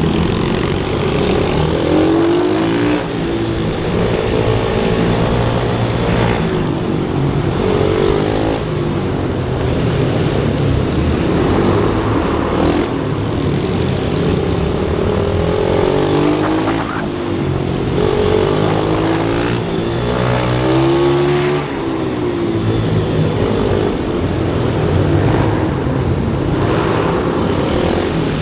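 Pit bike engines running hard, their pitch rising and falling again and again as the bikes accelerate and ease off, with the loud engine sound never dropping away.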